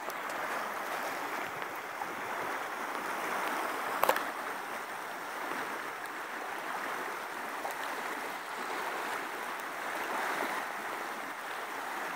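Floodwater rushing in a swollen river: a steady, even rush, with a single short knock about four seconds in.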